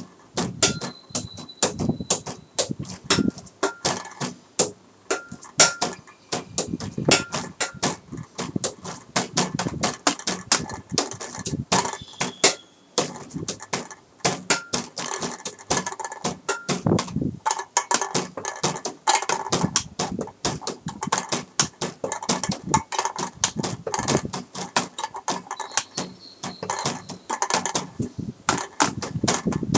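Improvised percussion on everyday objects such as a water bottle, a beer can in a glass, a table and a pipe: a fast, continuous rhythm of taps, knocks and clicks with low thumps for bass, and a few brief ringing tones.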